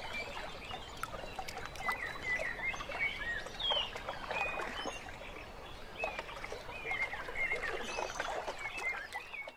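Birds chirping, short high calls scattered through, over a steady outdoor hiss of wind and lake water.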